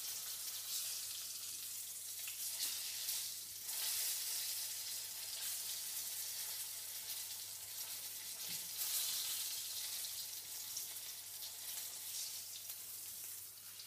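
Flour-coated chicken breast pieces shallow-frying in hot oil in a frying pan, sizzling steadily with a few louder crackles.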